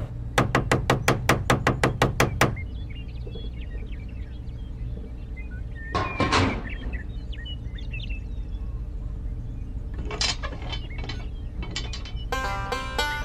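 A rapid run of mechanical ratcheting clicks, about five a second, over a low steady hum. A short noisy burst comes midway and a few more clicks follow later, then plucked-string music with a banjo starts near the end.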